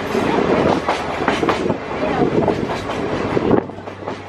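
Sagano sightseeing train rolling along the track, heard on board: a steady rumble of the carriage with the wheels clacking over the rails.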